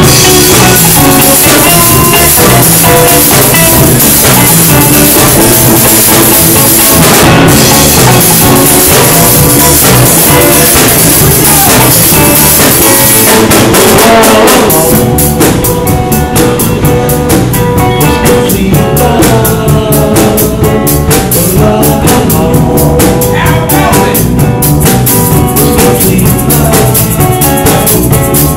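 Live band playing music with guitar and a steady drum beat, loud throughout. About halfway through the bright cymbal wash drops away and a tighter, clipped beat carries on.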